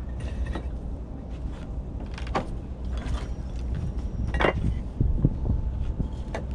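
Bricks being set down dry, without mortar, onto a brick course: several sharp knocks spread over a few seconds, the loudest about four and a half seconds in, over a steady low rumble.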